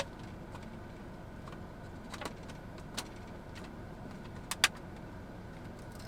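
A few short, sharp clicks and taps of plastic sauce cups being handled: one at the start, a couple in the middle and a quick pair later on, over a steady low hum.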